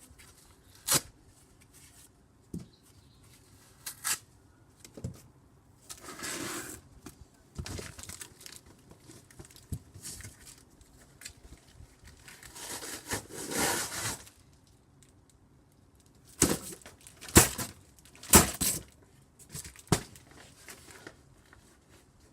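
Cardboard box being struck with a vacuum cleaner's extension pole: sharp hits at irregular intervals, with a quick run of four near the end. Two longer stretches of tearing, crumpling cardboard come in between.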